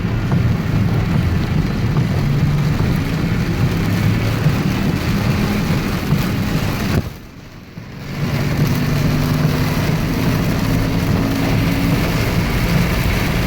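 Heavy rain hitting a moving truck, heard from inside the cab, over engine and road noise as it drives through flooded streets. The noise drops off suddenly about halfway through for about a second, then builds back up.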